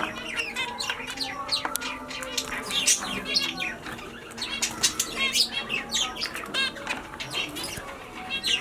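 A flock of Isabel finches chirping, with many short, sharp calls overlapping in quick succession.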